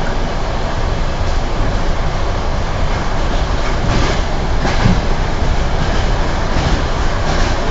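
Electric commuter train carriage running, a steady rumble of the moving car with a few knocks of the wheels and running gear.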